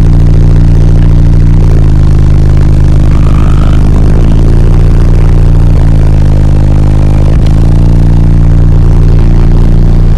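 Extremely loud bass music from a car audio system of six 12-inch subwoofers in a 4th-order bandpass enclosure, heard inside the Jeep's cabin. It is steady, sustained low bass notes with no break.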